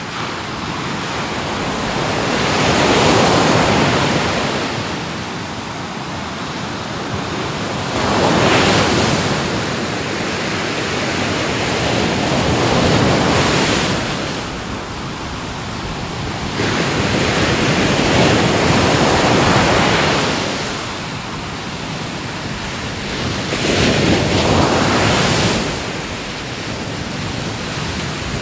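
Ocean waves breaking on the shore, the surf swelling and falling back about every four to five seconds, five surges in all.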